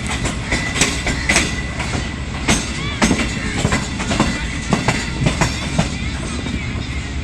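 Passenger train coaches rolling along the track, wheels clicking irregularly over rail joints above a steady low rumble.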